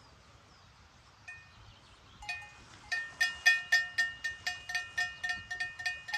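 Metal livestock bells (cowbells) clanking in a quick, even rhythm, about three strikes a second, after a lone strike near the start. This is the steady jangle of a bell swinging on an animal's neck as it walks.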